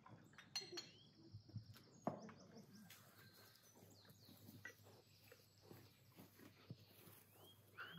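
Faint outdoor birdsong: short rising chirps, a quick run of repeated falling high notes about three seconds in, and more chirps near the end, with a few soft clicks.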